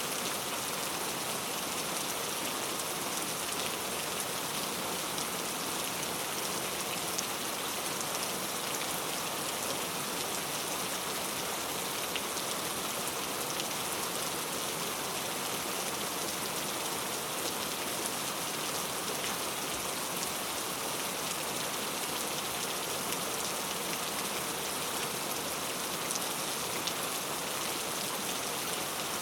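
Steady rainfall, a continuous hiss with many small drop ticks on a hard surface.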